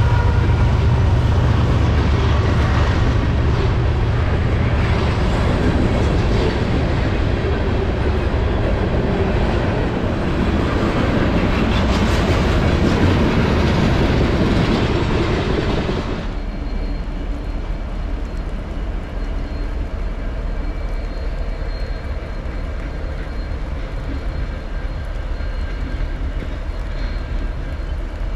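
Freight train passing close by: Norfolk Southern diesel locomotives rumbling past, then loaded trash container flatcars rolling by on the rails. About sixteen seconds in, this gives way abruptly to the quieter, steadier rumble of a distant train.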